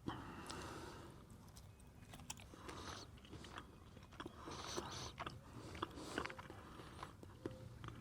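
A person chewing food close to the microphone: faint, irregular small clicks and crunches.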